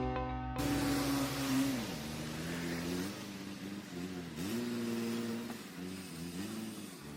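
Wood chipper's engine running, its pitch dipping and recovering several times, over a rushing hiss. The tail of a music track ends about half a second in.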